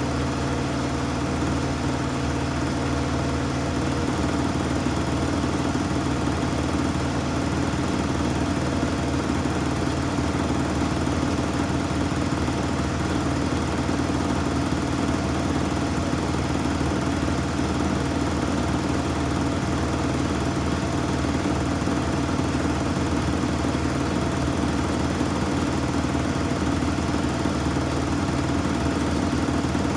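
Samsung front-loading washing machine spinning at a steady speed on its normal cycle: an even motor and drum hum that does not slow down or speed up.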